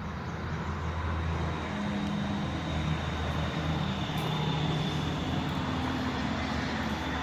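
An engine droning steadily: a low hum with a few held tones that shift in pitch now and then.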